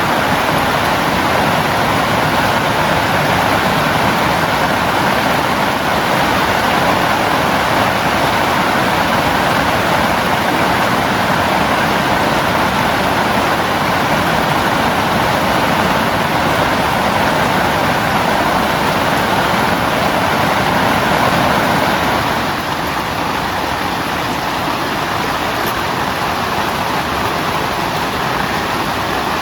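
Heavy rain falling steadily on a tent, a dense unbroken hiss; about three quarters of the way through it eases slightly.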